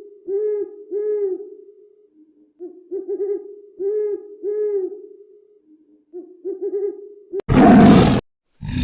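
An animal's low, repeated hooting calls, several notes to a phrase in three phrases, then a short loud harsh cry near the end.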